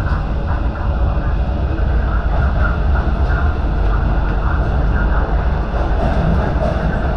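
MTR Q-train electric multiple unit running through a tunnel, heard from inside the car: a steady, loud rumble of wheels on rails with motor and running noise.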